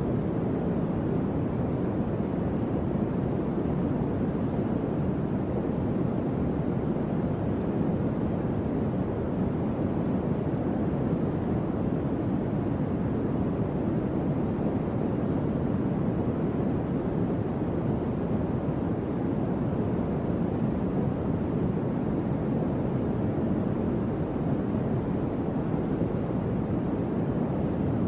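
Electric fan running steadily: an even, low whooshing hum of moving air with no change in speed.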